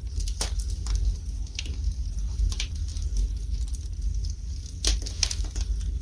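Wood fire burning in a fireplace, crackling with irregular sharp pops and snaps over a low steady rumble. The loudest pops come about half a second in and twice near the end.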